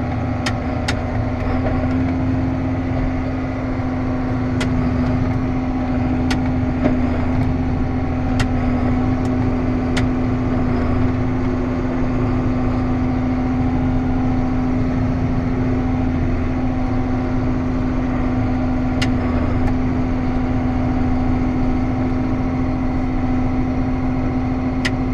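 Diesel engine of a large farm machine running steadily while driving, a constant hum over a low rumble, with a few light clicks, mostly in the first ten seconds.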